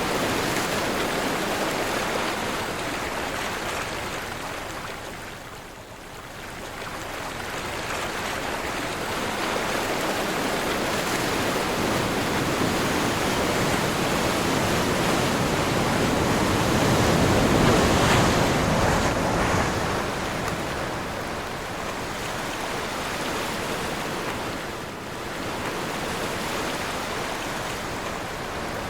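Sea waves breaking and washing in on a windy day: a wide rushing noise that swells and ebbs, falling away twice and loudest about two-thirds of the way through.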